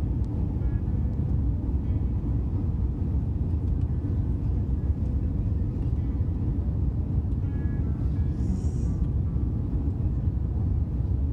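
Steady low rumble of an Airbus A350-900 cabin in flight, with air and engine noise blending into an even drone. Faint voices can be heard now and then in the background.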